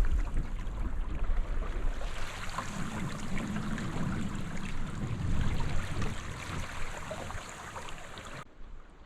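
Water rushing and splashing along a sailing canoe's hull under way in strong wind, with wind buffeting the microphone. Near the end it drops suddenly to a quieter, duller wash.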